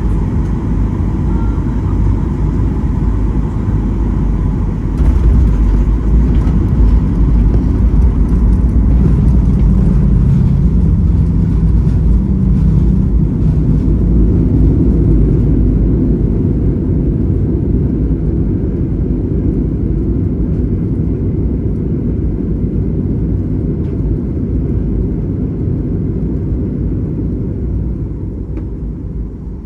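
Boeing 737-800 cabin noise: a loud, steady, low rumble of the jet. It gets louder about five seconds in, then slowly eases off toward the end.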